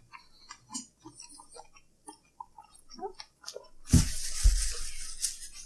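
Close-miked chewing of tater tots: soft, scattered wet mouth clicks and smacks. About four seconds in, a louder rustling stretch with a couple of low knocks.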